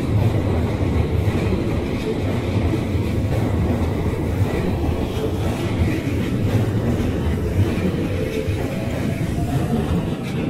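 Keikyu electric commuter train passing close by, its wheels rumbling steadily on the rails.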